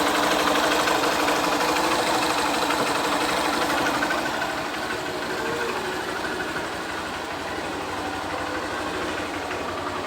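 Honda Fan 125's single-cylinder, air-cooled four-stroke engine idling steadily after a rebuild with new cylinder sleeve and piston and adjusted valves, easing slightly about four seconds in. It runs quietly, without the valve-rocker tick that had been feared, a sign the rockers do not need replacing.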